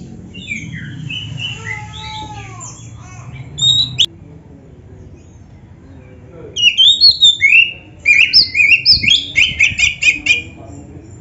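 Oriental magpie-robin (kacer) singing. Soft warbling for the first few seconds gives way, a little past halfway, to loud rapid runs of sharp, repeated whistled notes.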